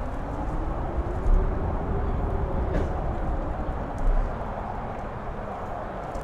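Strong gusting wind buffeting the microphone, a steady rush over a deep rumble, swelling in gusts about a second in and again around four seconds.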